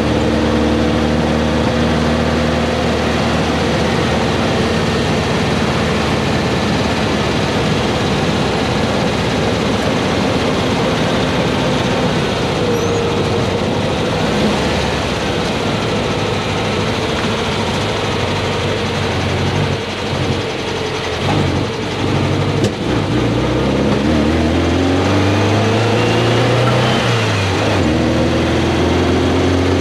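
VW Beetle's air-cooled flat-four engine pulling the car along the road, with wind and road noise. A little past two-thirds through, the engine note falters with a sharp pop. It then rises as the car accelerates and drops at a gear change near the end. The owner takes this popping for a lean pop, a sign the main jet could be a little small.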